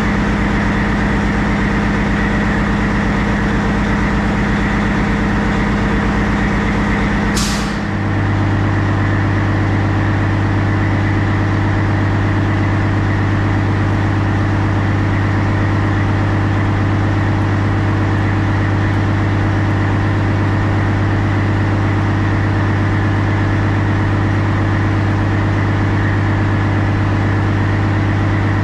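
Semi truck's diesel engine idling steadily. About seven seconds in there is a short hiss of air, and right after it the engine's note drops lower and stays there.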